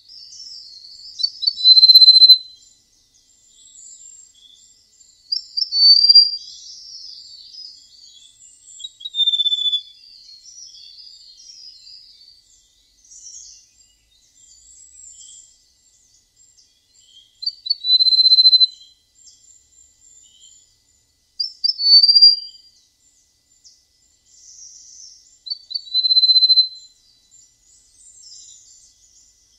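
A prenjak emas (golden prenjak) songbird singing clear, flute-like whistled phrases every few seconds, each a quick rising note ending in a held high whistle, six times with a longer pause in the middle. Fainter high chirps and twitters fill the gaps.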